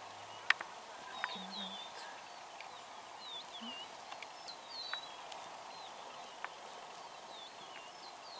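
Wild birds calling with repeated short, swooping chirps over a steady outdoor background, with several sharp clicks, the loudest about half a second in.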